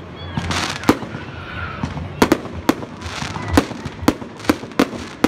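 Fireworks display going off: a quick, irregular run of about nine sharp bangs, with hissing crackle between them.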